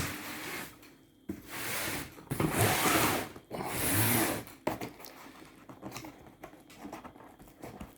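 Cardboard box and its packaging being handled: three rustling, scraping bursts of about a second each, then lighter taps and rubs.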